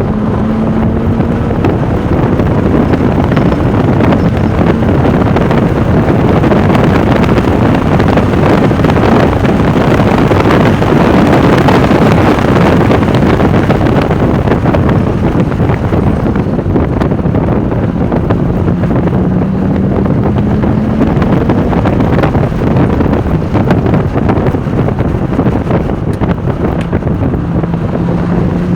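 Porsche 996 Turbo at speed, heard onboard: heavy wind rush buffeting the microphone over the twin-turbo flat-six. The engine note climbs slowly in pitch near the start, again around two-thirds of the way through, and near the end.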